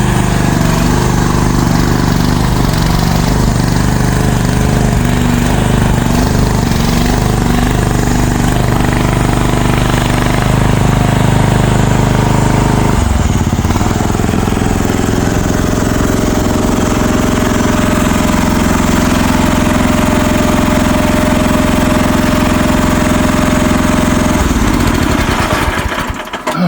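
Diesel engine of a compact earthmoving machine running loudly while it is driven on or off a trailer. Its pitch shifts twice partway through, and the engine shuts off near the end.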